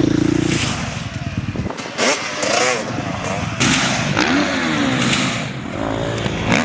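Suzuki dirt bike engine running and revving, its pitch rising and falling.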